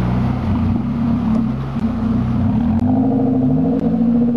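Suzuki Samurai 4x4 engine pulling away along a rutted dirt trail, its pitch rising and falling several times as the throttle is worked.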